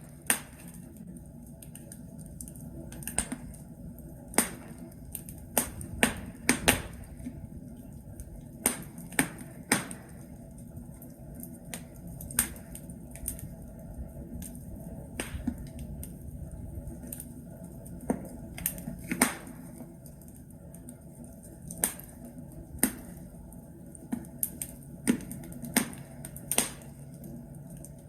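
Logs burning in a fireplace, crackling: irregular sharp pops and snaps, a few a second and unevenly spaced, over a steady low hum of the fire.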